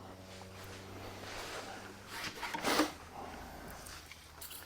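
Faint hand-cleaning of a truck seat base: short rubbing and wiping strokes, the loudest a couple of strokes about two to three seconds in, over a steady low hum.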